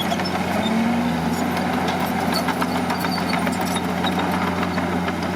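Heavy earthmoving machine's diesel engine running steadily at a low, even pitch, with a brief wavering in pitch about a second in and scattered light clicks and rattles.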